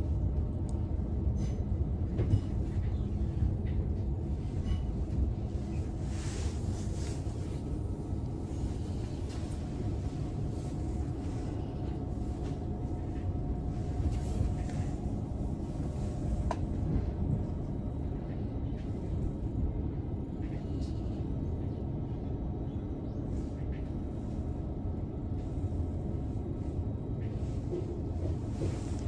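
c2c electric passenger train running along the line, a steady low rumble from the wheels and track with a few faint ticks and a faint whine in the middle, heard from inside the carriage.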